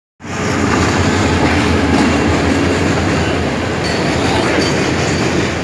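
Freight train of container wagons passing at speed: a loud, steady rumble of steel wheels on the rails.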